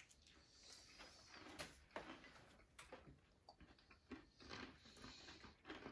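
Faint chewing of a crunchy lettuce wrap with candied peanuts: scattered, irregular little crunches and mouth clicks.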